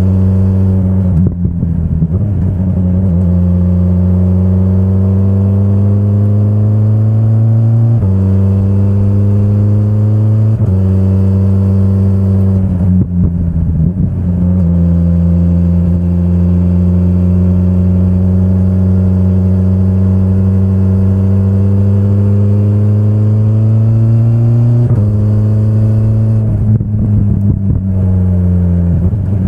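2025 BMW S1000RR's inline-four sportbike engine under way, its pitch climbing steadily as it pulls through the revs, then dropping in quick steps that sound like upshifts. Three times it breaks into a brief rough, stuttering patch where the pitch falls and then picks up again.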